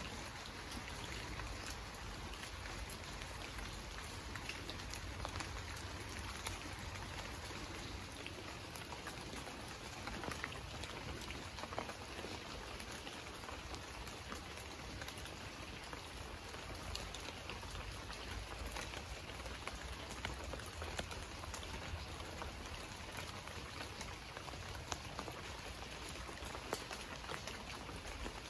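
Steady rain falling: an even hiss with frequent sharp ticks of single drops striking close by.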